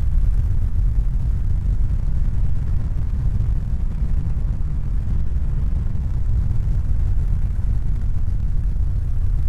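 A steady, loud low rumble with no distinct events, its weight deep in the bass.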